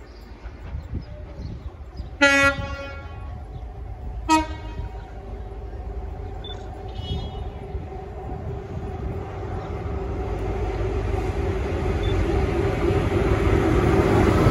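A Network Rail HST led by a Class 43 power car sounds its two-tone horn on approach: a longer lower note, then a short higher note about two seconds later. Then the power car's engine drone and the rumble of the train on the rails build steadily as it nears and runs through the station.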